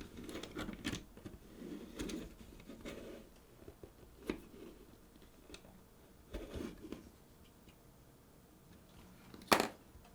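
Hands working on the plastic bottom case of a camcorder recorder and its thermal pad, making scattered light scrapes, rustles and small clicks. Near the end there is one sharp click, the loudest sound.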